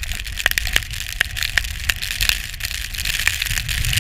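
Strong mountain wind buffeting the camera microphone: a steady low rumble under a high hiss. Irregular sharp crunches and ticks run through it.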